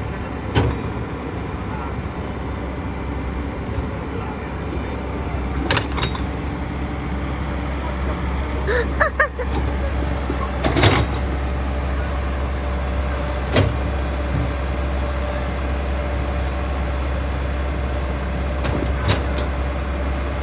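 Backhoe's diesel engine running steadily with a low rumble, with a few sharp metallic clanks scattered through it.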